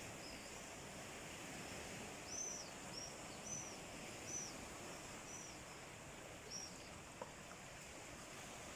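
Faint, steady hiss of sea surf, with a bird giving about eight short, high chirps in a loose series over the first six or so seconds.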